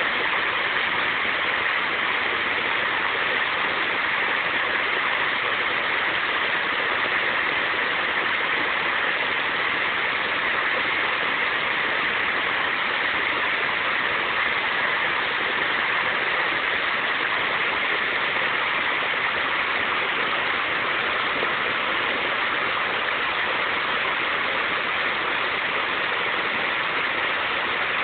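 River water rushing, a steady unbroken noise that holds the same level throughout.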